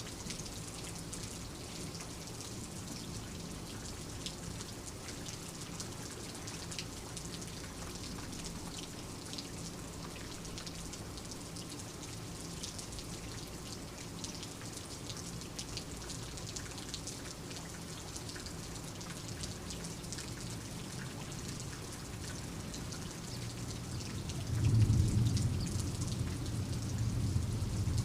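Steady rain falling, with many fine drop ticks. About twenty-four seconds in, a low rumble of thunder swells up and rolls on.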